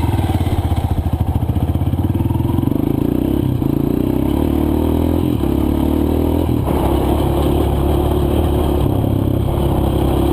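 A small single-cylinder four-stroke dirt bike engine running steadily, its note shifting slightly a couple of times.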